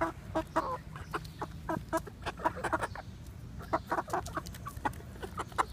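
Backyard flock of young chickens clucking, many short calls overlapping in quick succession.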